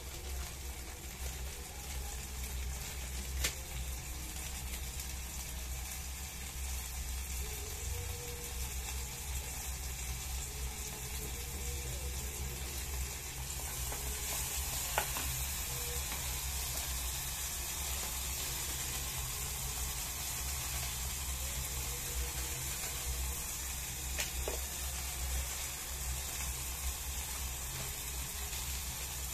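Chopped tomatoes and chili sizzling in oil in a small electric pot, stirred with a plastic spatula, with a few light clicks from the stirring. The sizzle grows brighter about halfway through, over a steady low hum.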